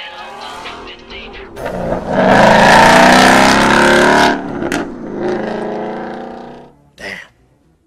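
2015 Ford Mustang GT's 5.0-litre Coyote V8 accelerating hard, at its loudest for about two seconds, then fading as the car pulls away. A short, sharp sound comes near the end.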